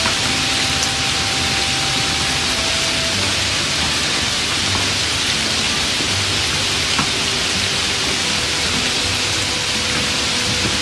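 Snails frying in a hot wok, a steady sizzling hiss.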